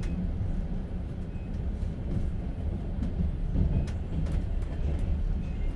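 Steady low rumble of a moving passenger train, heard from inside an open-plan sleeper carriage as the wheels run on the rails and the car body shakes. A few short sharp clicks come through, one at the start and two around four seconds in.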